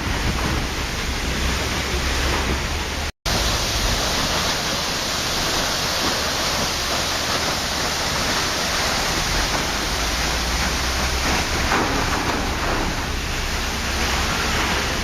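Steady rushing of a waterfall, an even wash of falling water with no change in level. About three seconds in it cuts out completely for a split second, then resumes.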